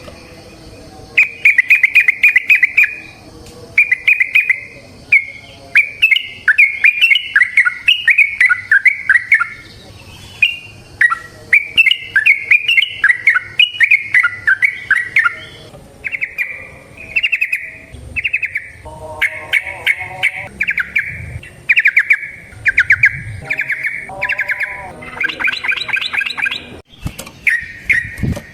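Yellow-vented bulbul (trucukan) in full, sustained song: a long string of quick, chattering phrases, one after another with brief pauses.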